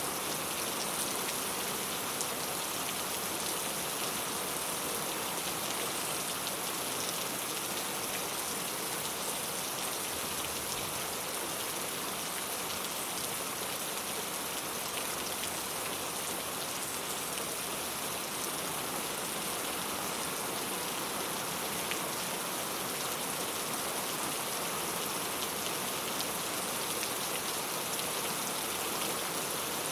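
Steady rain falling on a clay tile roof, an even dense hiss flecked with the small ticks of individual drops.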